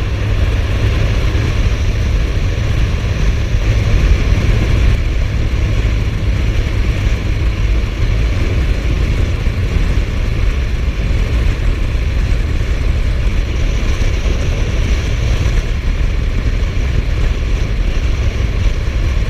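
Suzuki GSF1250S Bandit's inline-four engine and the rush of wind over the microphone while riding at a steady speed: a constant deep rumble with a hiss above it.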